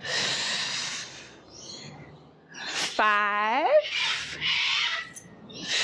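A woman breathing heavily close to the microphone during exercise, a few long, hissy breaths in and out, with a single spoken count near the middle.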